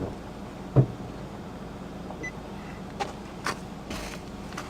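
Steady low hum of a car idling, heard inside the cabin, with a few knocks and clicks from a camera being handled and set in place; the loudest knock comes about a second in.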